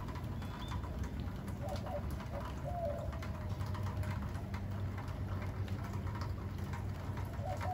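Steady rain pattering on water and wet ground, many small drop hits over a low rumble, with a dove cooing a few times.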